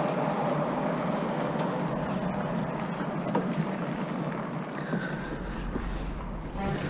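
Steady rumble and rush of a vehicle on the move, with a few faint rattles; the low rumble grows about five seconds in.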